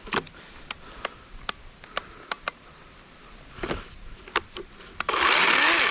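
A series of sharp clicks from tightening the chain-tensioning cam on a Worx 40-volt cordless electric chainsaw after re-fitting its chain. About five seconds in, the saw runs for under a second, a loud whirr with a rising whine, then stops: a test run that shows the chain is back on.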